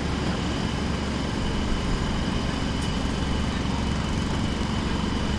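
Jackhammer working at a distance, a steady mechanical din with no separate strokes standing out.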